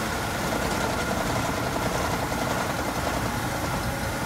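Workshop machinery running steadily: a continuous mechanical rumble with a thin, steady whine above it.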